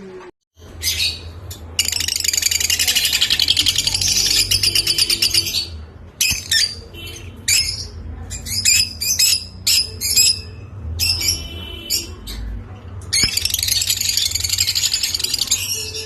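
Lovebirds chattering: a long run of rapid, dense high chirps, then separate sharp chirps and squawks, then another dense run of chatter near the end.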